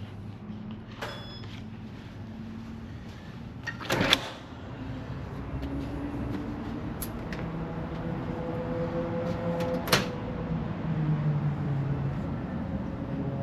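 Hotel elevator: a door closes with a clunk about four seconds in. The car's hum then builds and slowly rises in pitch as it gets moving, with another clunk near ten seconds.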